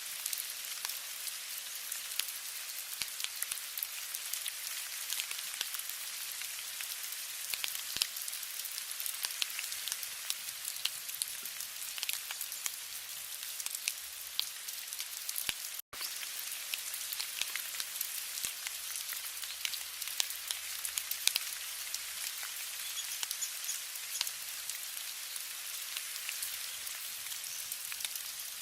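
Steady rain falling, a constant high hiss with many individual drops ticking and pattering. The sound cuts out for a split second about halfway through.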